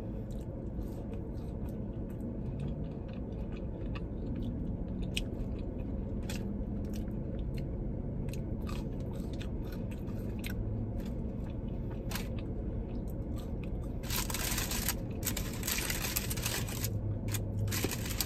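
Close chewing and crunching of well-done French fries dipped in ranch, with scattered small mouth clicks over a low steady hum. About fourteen seconds in come a few seconds of louder, crackly noise.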